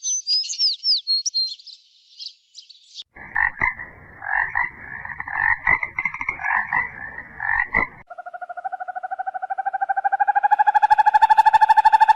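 A run of animal calls: brief high chirps near the start, then a stretch of pulsing calls, then from about eight seconds in a steady, fast trill that grows louder.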